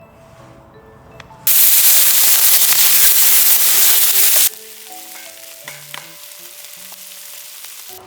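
Food sizzling loudly in a hot pan for about three seconds, starting and stopping abruptly, then a quieter hiss, over soft background music.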